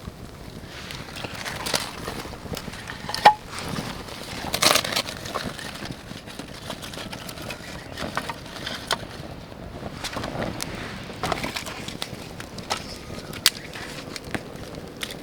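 Crackling, rustling and scattered sharp clicks and knocks of hands at work around a campfire, with a louder knock about three seconds in and another about five seconds in.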